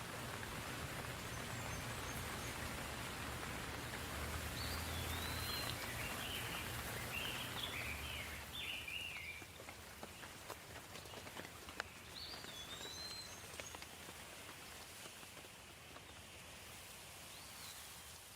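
Soft steady rain falling, with a bird chirping now and then, a quick run of chirps in the first half. A low rumble underlies the first half, and there is one sharp click about two-thirds of the way through.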